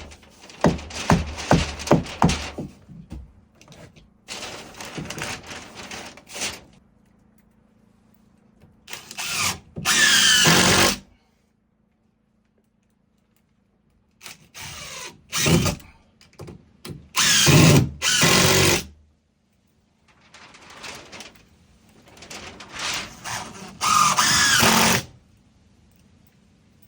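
Power drill running in repeated short bursts of one to two seconds, its motor whining up and down, with a quick series of knocks near the start.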